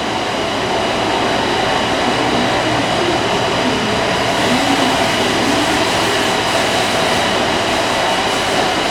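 John Deere tractor engine running steadily: a loud, even mechanical noise with a steady whine through it.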